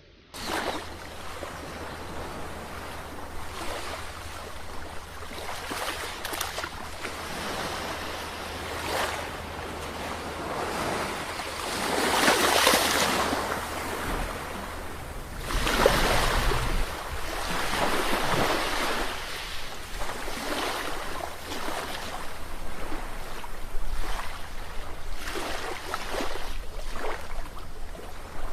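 Sea waves breaking and washing on the shore in a steady surf, with waves swelling and falling away every few seconds; the biggest surges come about twelve and sixteen seconds in.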